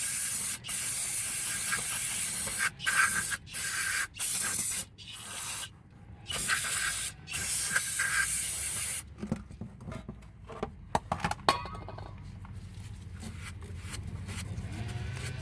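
Aerosol brake cleaner sprayed in a string of loud hissing bursts, washing brake dust off the rear brake parts. After about nine seconds the spraying stops and only light clicks and rattles of handling remain.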